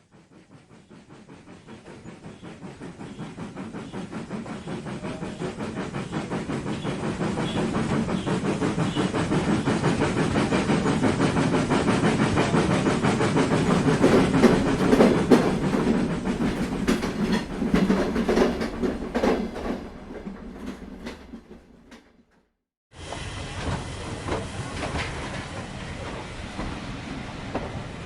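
Model train running on track, its wheels clicking rapidly over the rail joints. It grows louder as it approaches, peaks about halfway through and fades away. After a brief silence it cuts to another stretch of steady running.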